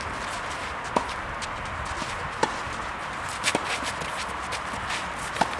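Tennis ball struck back and forth by rackets in a doubles rally: a sharp knock with a short ping of the strings roughly every one to one and a half seconds, with a quick double knock around the middle, over light footsteps on the court.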